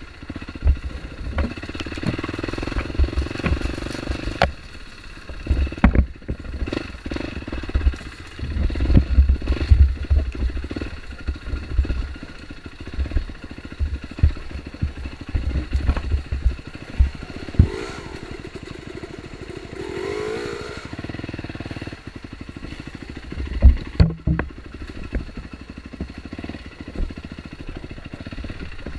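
Dirt bike engine running and revving unevenly on a rough off-road trail, with repeated knocks and clatter from the bike over the ground.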